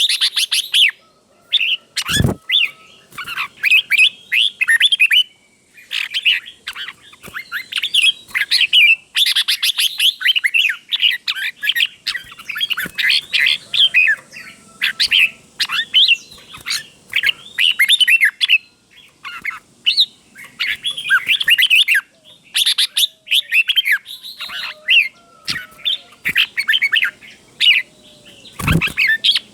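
Red-whiskered bulbul singing loud, short warbling phrases in quick runs with brief pauses, many of the phrases given twice in a row (the doubled 'berl' style prized in Thai song birds). A low thump sounds twice, about two seconds in and near the end.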